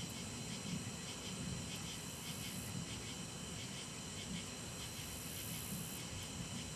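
Outdoor storm ambience: a steady low rumble with hiss, and faint insects chirping in a steady rhythm over it. No clear thunderclap.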